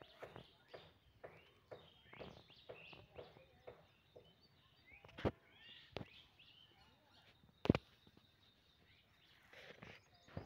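Birds chirping repeatedly, with a few sharp knocks in between, the loudest about three quarters of the way through.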